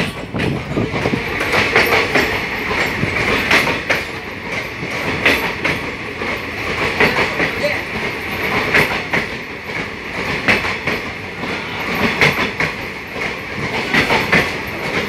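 Passenger train running through a tunnel: a loud, steady rumble and rattle of the wheels on the rails, with irregular clacks throughout.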